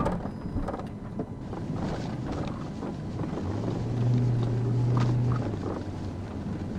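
A moving vehicle's engine and road noise, a steady rumble with a strong low drone through the middle couple of seconds.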